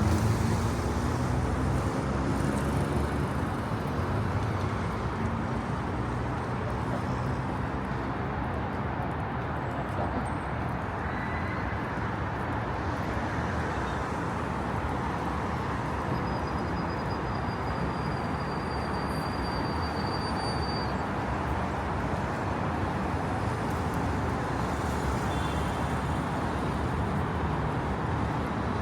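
Steady urban traffic noise from road vehicles. Near the start, a vehicle's engine rises in pitch as it accelerates.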